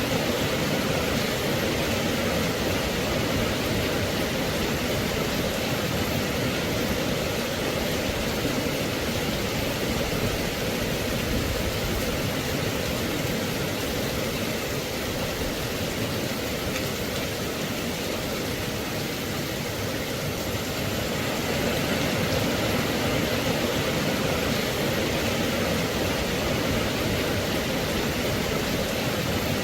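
Steady rain, a continuous even hiss with no single drops or other sounds standing out.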